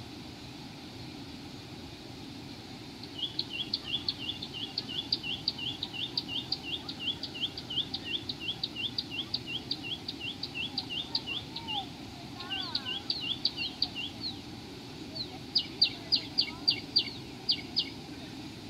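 A bird calling in fast runs of repeated high chirps, about three a second, that start a few seconds in. A run of sharper, louder notes follows near the end, over a steady low background hiss.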